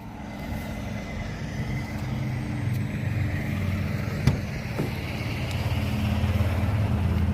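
Truck engine running steadily, growing louder over the first couple of seconds, with one sharp click about four seconds in.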